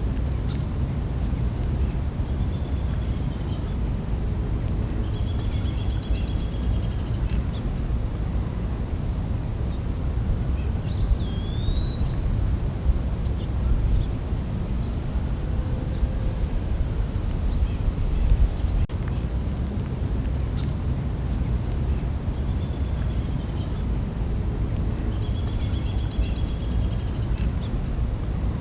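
Night insect chorus: a steady high-pitched buzz, with crickets chirping in regular runs and occasional longer trills, over a steady low background noise. A single short rising call sounds about eleven seconds in.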